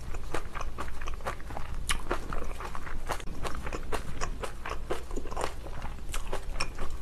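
Close-miked chewing of spicy napa cabbage kimchi: many small wet crunches and mouth clicks, several a second.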